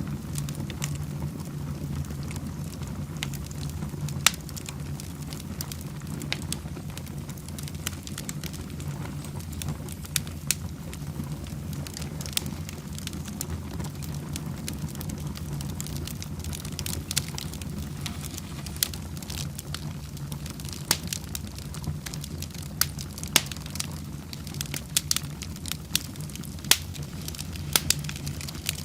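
Fire burning in a fireplace, crackling with sharp pops scattered over a steady low rumble. The pops come more often in the second half.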